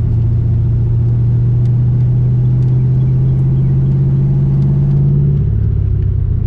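Ford Mustang GT's 4.6-litre two-valve V8 pulling the car along, a steady low drone that climbs slightly in pitch, then drops a step about five seconds in. The car has a little exhaust leak.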